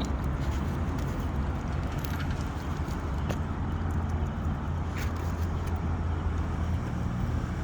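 A motor vehicle's engine running steadily with a low hum, with a few light clicks over it.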